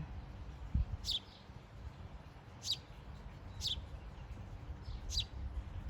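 Small birds at a birdhouse chirping: four short, high chirps, each falling in pitch, spaced about a second or so apart. A low thump sounds under a second in.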